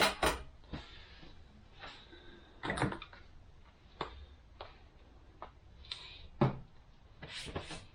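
Automatic transmission parts being handled on a workbench: a series of separate clicks and knocks, with quiet stretches between them.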